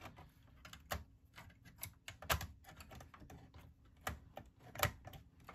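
iMac G3 optical drive being slid along its perforated metal drive cage until it catches its retaining spring: a run of irregular light clicks and knocks of metal on metal, the sharpest about two and a half and five seconds in.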